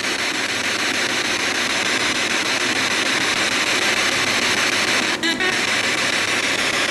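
Spirit box radio scanner hissing steady radio static as it sweeps through stations, with a brief break just after five seconds in.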